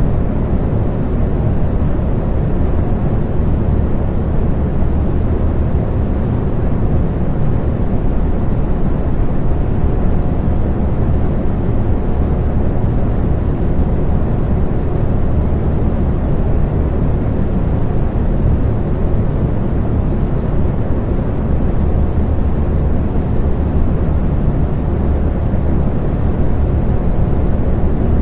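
Electric fan running steadily: an even low whoosh of moving air with a faint hum from the motor.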